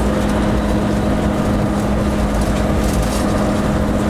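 Locomotive noise heard inside the driving cab while the train runs: a steady drone with a constant low hum that does not change.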